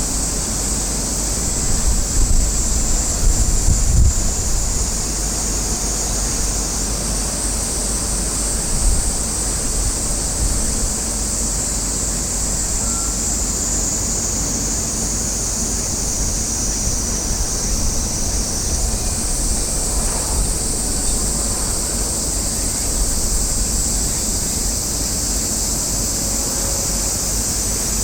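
Wind buffeting the microphone as a low rumble, with stronger gusts about two to four seconds in, over a steady high hiss.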